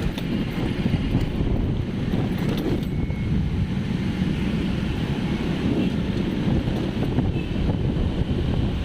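Wind buffeting the microphone: a steady low rushing rumble.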